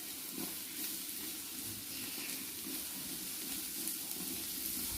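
Masala frying in ghee and oil in a cooking pot, sizzling steadily.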